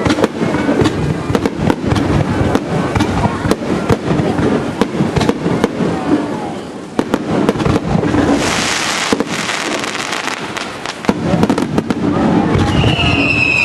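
Aerial fireworks shells bursting close by in rapid succession, bang after bang. About eight seconds in there is a stretch of hissing crackle, and near the end a high, slowly falling whistle.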